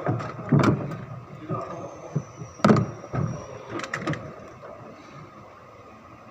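A run of irregular knocks and clicks, the loudest about half a second in and again near the middle, with a faint thin high tone in between; it goes quieter for the last second or so.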